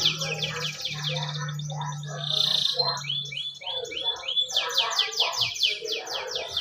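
Domestic canary singing: fast trilled rolls of rapidly repeated high notes, a short buzzy note about two and a half seconds in, then a run of separate chirps before the rolls resume. A faint low steady hum lies underneath.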